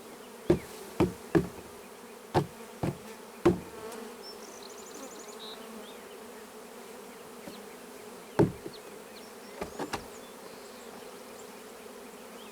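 Honeybees buzzing in a steady hum while the bee package box is knocked several times, six sharp knocks in the first few seconds and a few more near the end, to shake the last bees out of the package into the hive.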